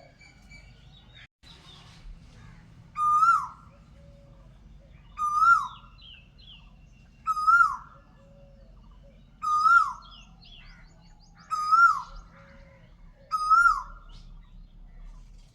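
A bird repeating the same short call six times, about every two seconds, each note rising and then dropping, with fainter chirps from other birds between the calls.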